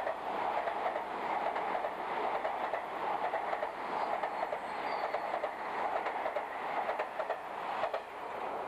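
A 381-series tilting electric express train passing at speed: a steady rushing rumble with a fast clatter of wheels over rail joints.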